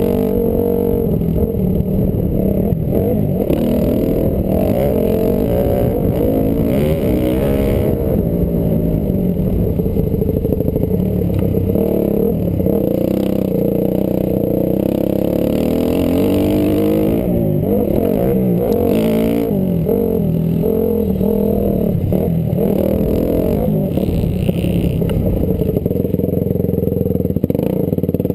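Honda CRF250R's single-cylinder four-stroke engine revving up and down over and over as the dirt bike is ridden hard, heard close from a helmet camera.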